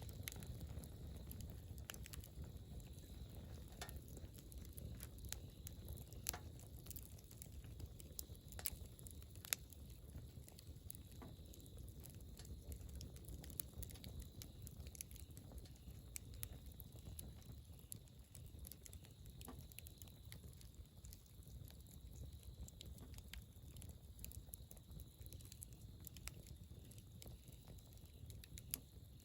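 Campfire crackling softly: scattered sharp pops and ticks over a low, steady rumble.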